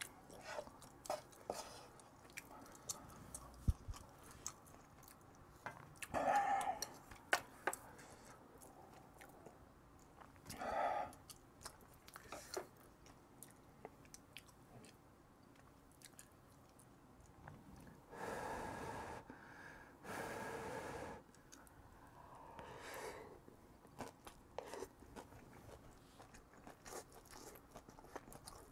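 Close-miked eating sounds: a person chewing mouthfuls of jajang-sauced rice with Spam, with many short wet mouth clicks and smacks and a few longer noisy stretches.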